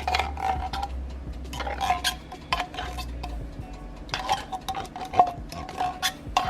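A spoon scraping and knocking inside a metal can, emptying condensed cream of chicken soup, with repeated clinks and scrapes and a short ring from the can.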